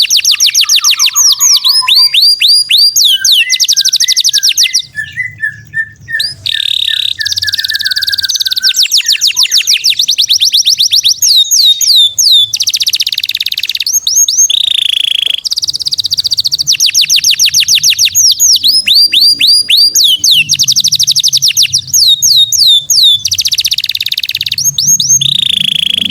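Songbird singing loud, rapid rattling trills of high, downward-sweeping notes, repeated in series with short pauses, plus a lower warbling phrase near the start; the song drops away briefly about five seconds in.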